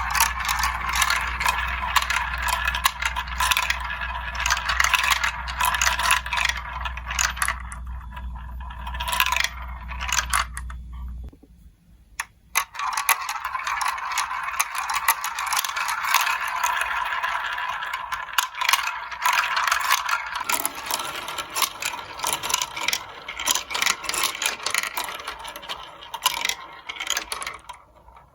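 Many marbles rolling and clattering down a plastic building-block marble run track, a dense rapid rattle of small clicks and scrapes. It drops away briefly about a third of the way in and then picks up again. A low steady hum sounds underneath until that lull and stops with it.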